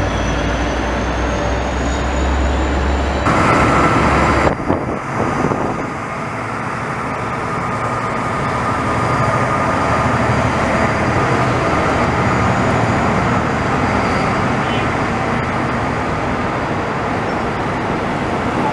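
Diesel locomotive passing close by at the head of a passenger train. Its low engine rumble is loud and cuts off sharply about four and a half seconds in. The double-deck coaches then roll past with a steady rumble of wheels on rail, and a thin wheel squeal runs through the first part of their passage.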